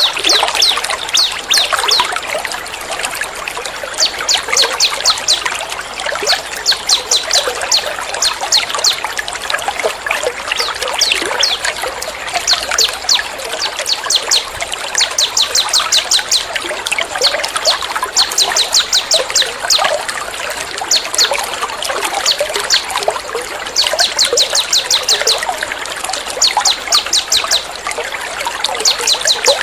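Songbirds sing in rapid-fire trills, bursts of fast staccato high notes about one to two seconds long that come every couple of seconds. Under them runs a steady trickle of flowing water, the 'water therapy' sound mixed into a bird-training track.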